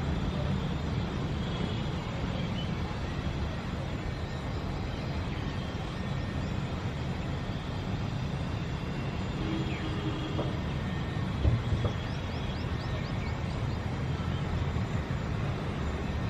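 City ambience: a steady low rumble of traffic, with a few faint bird chirps and a single brief thump about eleven seconds in.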